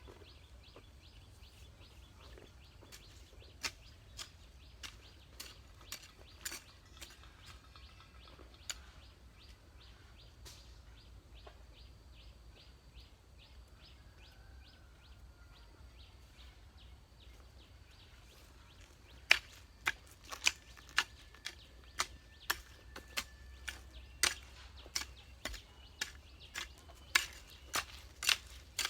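A series of sharp clicks, a few faint ones at first, then louder and coming about once or twice a second for the last third, over a low steady hum.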